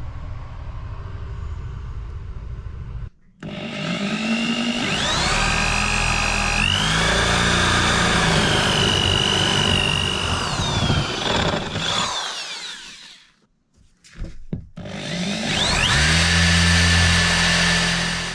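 A small electric motor spins up with a rising whine, runs for about nine seconds with its pitch wavering under load, and winds down. It then starts again for about three seconds before cutting off.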